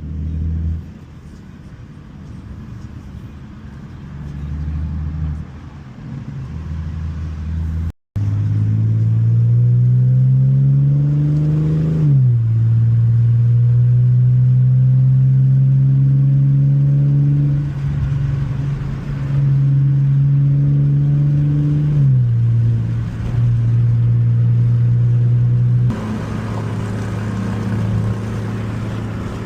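2017 Ford Mustang's 3.7-litre V6 through an MBRP exhaust with an H-pipe, pulling under acceleration. The exhaust drone climbs in pitch, then drops suddenly about twelve seconds in and again about twenty-two seconds in as it shifts up. It then settles to a lower cruising rumble near the end.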